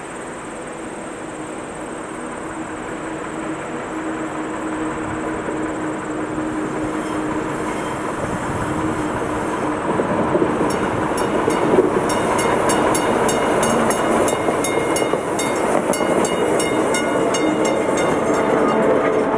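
Diesel switcher locomotive approaching slowly, its engine growing louder as it nears, then passing close with its passenger coach, the wheels clicking in a quick, even rhythm from about halfway through.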